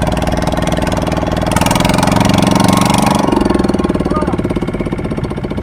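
Boat's motor running, rising briefly in speed and loudness about one and a half seconds in, then easing back after about three seconds.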